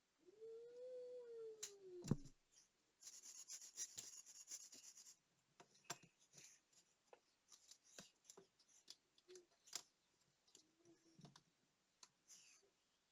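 Faint small clicks, taps and rustling of fine tools and tiny parts being handled at a watch repair bench, with a dense spell of rapid clicking about three seconds in. Before that, a drawn-out pitched whine rises and falls over about two seconds and ends in a sharp click.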